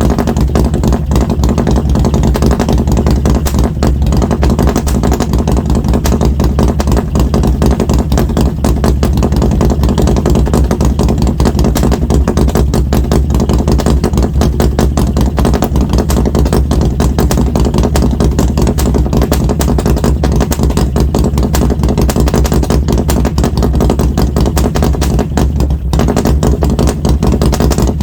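Harley-Davidson Road Glide Special's Milwaukee-Eight V-twin, fitted with an SS 475 camshaft, running steadily through Mutazu 2.0 megaphone slip-on mufflers with a loud, even rumble.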